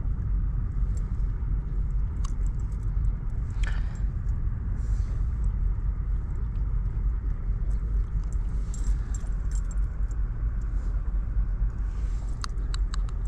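Steady low rushing of river water, with a few light clicks and ticks near the end.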